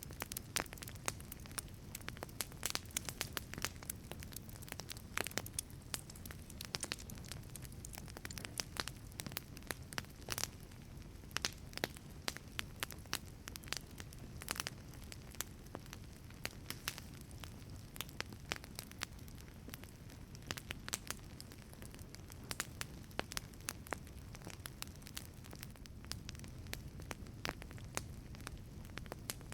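Wood fire burning in a wood-fired pizza oven: irregular sharp crackles and pops, several a second, over a steady low rumble of the flames.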